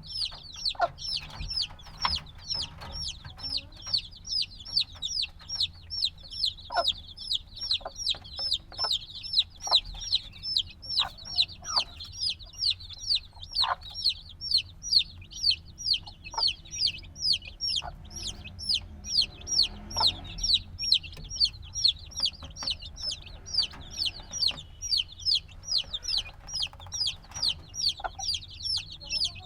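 Newly hatched chicks peeping without pause: a rapid, even run of high, downward-falling peeps, several a second.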